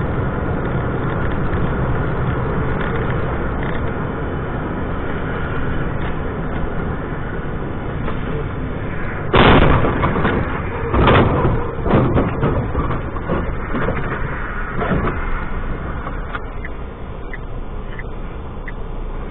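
Steady road and engine noise from inside a moving car on a dash cam, with several loud thumps about halfway through.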